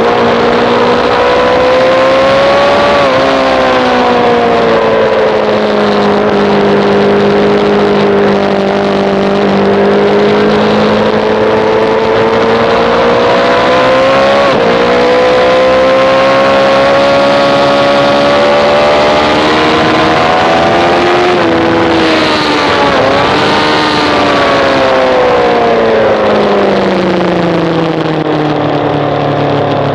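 Sportbike engine running hard at high revs on a track lap, its pitch sliding down and climbing again as the revs rise and fall, with sharp jumps at a few gear changes. A steady rush of wind runs underneath.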